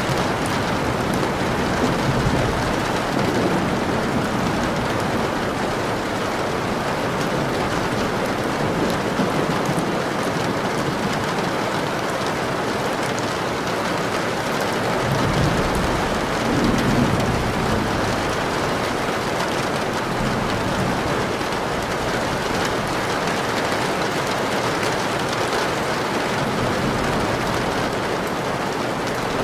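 Steady rain falling on a surface, a dense even hiss. About halfway through, a low rumble of thunder swells and fades.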